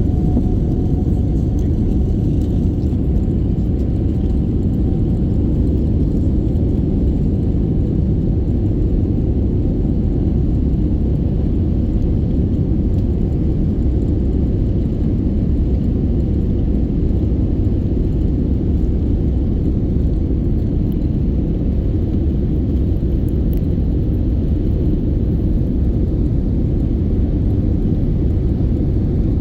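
Jet airliner's engines running: a loud, steady low rumble, with a faint tone that rises slightly in pitch at the start and then holds steady.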